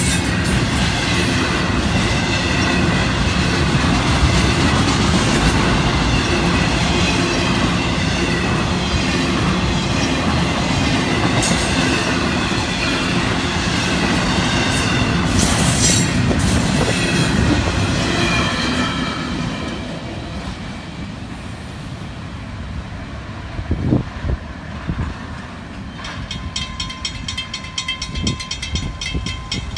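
Intermodal freight cars rolling past on the rails, a loud steady wheel rumble with clicking over the rail joints and some wheel squeal, which drops away about twenty seconds in as the train moves off. Near the end a steady tone and quick regular ticking come in.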